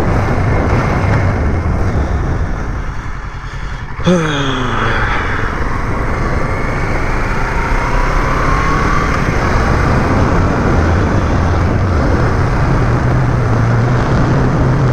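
Motor vehicle on the move: steady engine hum and road noise. About four seconds in there is a sudden jump in loudness, followed by an engine note falling in pitch.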